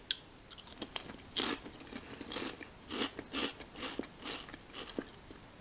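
Someone chewing crunchy popped lentil chips, making a run of irregular, fairly quiet crunches.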